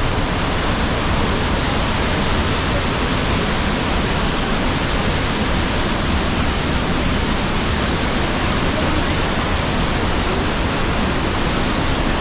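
Rhine Falls waterfall: a loud, steady rush of falling water, even and unbroken throughout.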